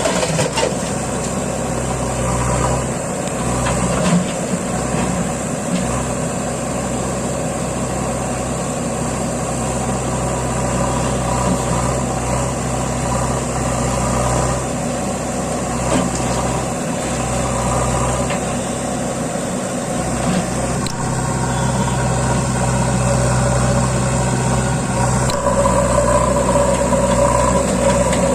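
Tractor diesel engine running steadily under a heavy trolley load, its note growing louder and stronger near the end.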